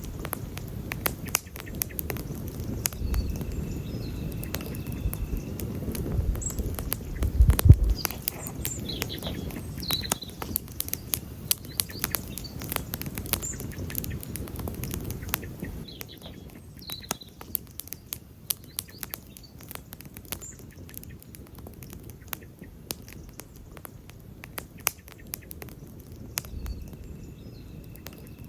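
Wood campfire crackling and popping with many sharp snaps over the low rush of the flames, the fire louder in the first half. A low thump stands out about seven and a half seconds in, and small birds chirp now and then in the background.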